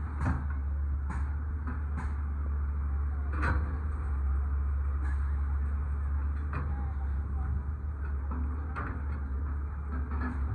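A heavy machine's engine running steadily, with scattered short knocks and clatters every second or two.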